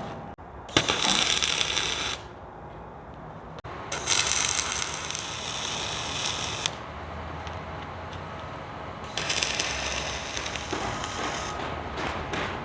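Electric arc on steel plate crackling and hissing in three bursts of one to three seconds, with quieter shop hiss between them.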